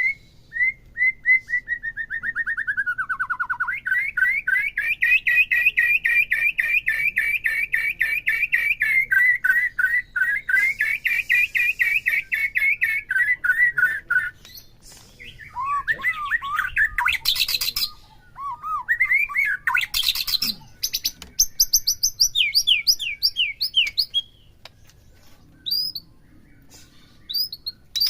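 White-rumped shama (murai batu) singing: a long, fast run of rapidly repeated chirps that dips in pitch once early on, then, after about fourteen seconds, varied shorter phrases and high whistles broken by short pauses.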